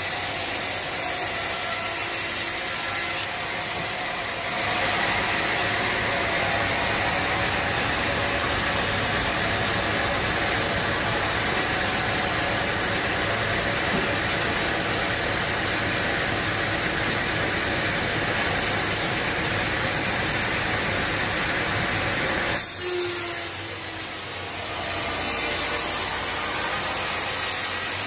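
Sawmill machinery running with a loud, steady, even noise. The sound shifts about four seconds in and dips briefly near the end before picking up again.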